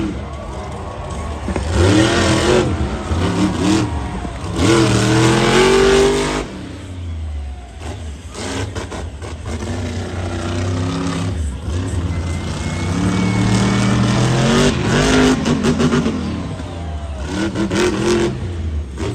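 Monster truck engine revving hard again and again, its pitch climbing and falling, with the loudest bursts about two, five and fourteen seconds in.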